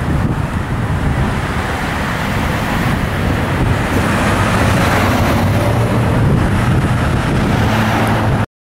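Fire engine running with a steady low rumble and road noise, cutting off suddenly near the end.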